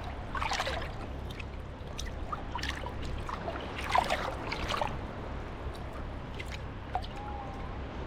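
Small sea waves lapping and washing at the shoreline, with a few splashing, gurgling surges over a steady low rumble.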